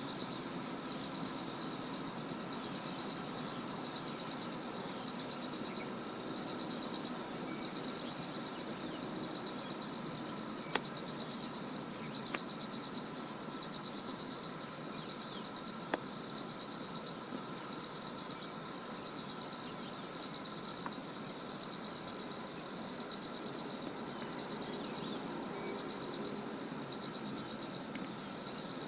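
Jungle insects in a steady chorus: one high, shimmering trill runs continuously while a second, higher call pulses in an even rhythm several times a second over it.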